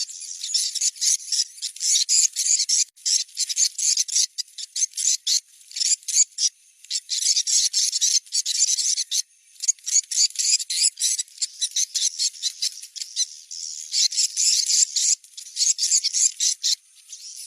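Recording of swiftlet calls played as a location-check lure: dense, rapid high-pitched twittering and chirping in long bursts, with a few brief gaps.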